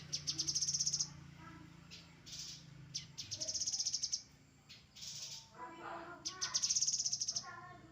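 Grey-headed canary-flycatcher song: three high, rapid trills of about a second each, the first right at the start, then about three seconds in and about six seconds in. Lower chirping notes come between the trills, over a steady low hum.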